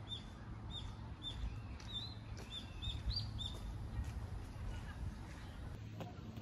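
A small songbird calling a quick series of about eight short, high chirps, roughly two a second, that stop about three and a half seconds in. A steady low outdoor rumble runs underneath.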